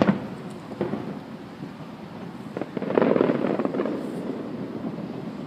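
Aerial firework shells bursting: a sharp boom right at the start, a softer one just under a second later, then, about three seconds in, a dense run of rapid pops lasting over a second.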